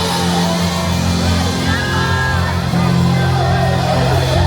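Loud live band music over a PA system, carried by a steady, deep bass line, with no singing.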